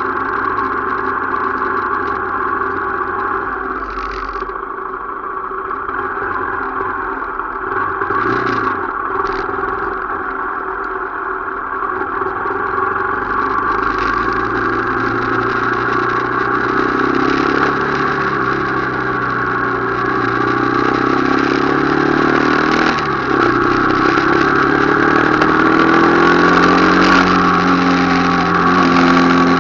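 Motorcycle engine running on the move, its pitch rising and falling as the speed changes over the second half.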